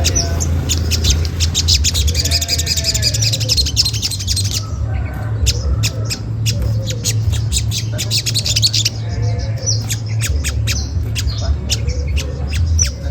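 Olive-backed sunbird giving rapid runs of sharp 'cret cret' chip calls, over a steady low hum.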